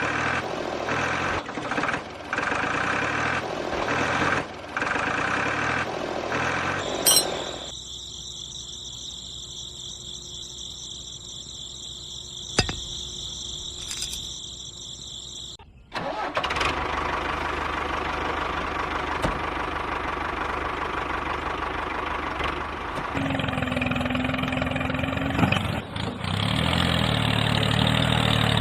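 Engine sound of a model tractor starting and running, in several separate stretches that change abruptly, the last stretch near the end louder and lower.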